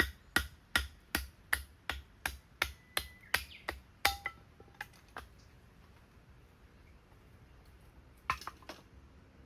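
Firewood being chopped with quick, light, evenly spaced strikes, about two and a half a second for some five seconds. It stops, then two or three more strikes come near the end.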